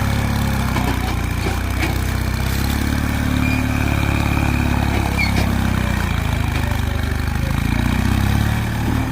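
Massey Ferguson mini tractor engine running steadily, its speed rising and falling slightly.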